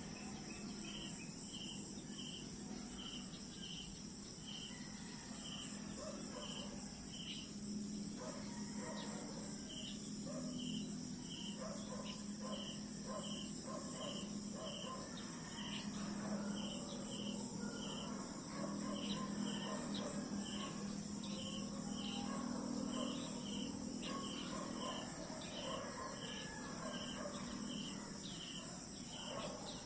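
Insect chorus: crickets chirping in a steady, even rhythm over a continuous high-pitched buzz of other insects. A low drone rises under it from about eight seconds in and fades near the end.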